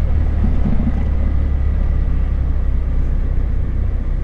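Motorcycle running steadily on the move, its engine and the wind and road noise making a constant low drone.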